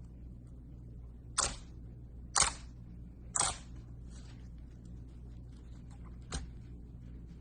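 Sharp crackling snaps: three about a second apart, one more a few seconds later, with faint small crackles between, over a steady low hum.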